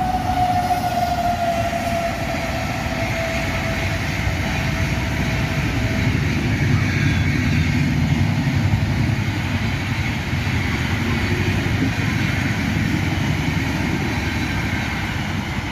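Rajdhani Express train running past at speed: a loud, steady rumble and rush of wheels and coaches on the track. A single high tone slowly falls in pitch and fades out about six seconds in.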